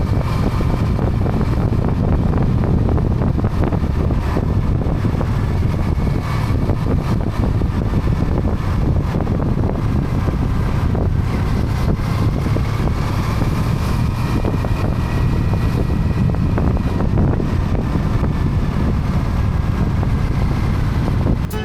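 Triumph motorcycle on the move, heard on board: a steady rush of wind over the microphone with engine and road noise underneath.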